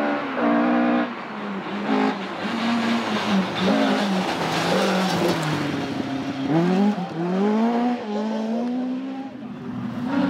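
Rally car engine run hard, the revs climbing and dropping back several times as it changes gear.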